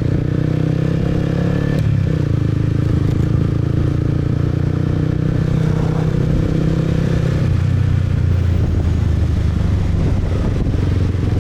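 Motorcycle engine running steadily while riding; the engine note shifts lower about seven seconds in.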